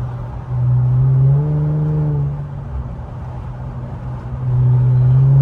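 Infiniti Q50's twin-turbo 3.0-litre V6 (VR30), fitted with aftermarket downpipes, running at highway cruise with a steady drone. It swells louder twice, about a second in and again near the end, as the throttle is picked up in traffic.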